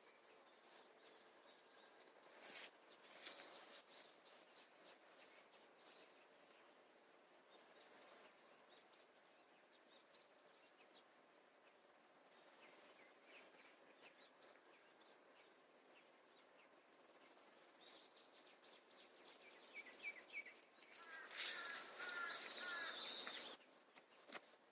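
Faint outdoor ambience with wild songbirds singing: a rapid high trill twice, then a louder spell of chirping calls near the end.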